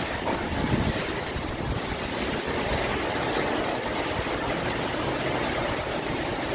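Strong cyclone wind blowing steadily, a continuous rushing noise buffeting the microphone.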